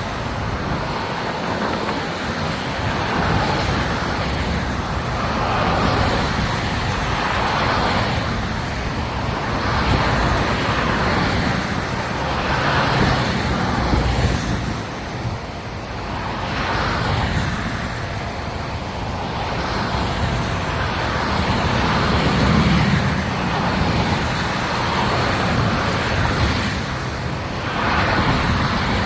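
Highway traffic: a steady rush of tyre and engine noise, swelling and fading every few seconds as vehicles pass one after another.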